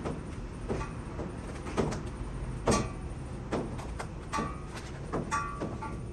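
Irregular metallic clanks and knocks, about eight of them, a few ringing briefly, over a steady low rumble.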